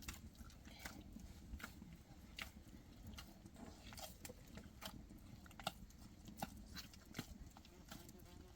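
Faint, irregular sharp clicks and crunches, one or two a second, over a low rumble.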